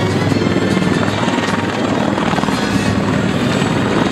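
CH-53 heavy transport helicopters running close by: a loud, steady rotor and turbine noise.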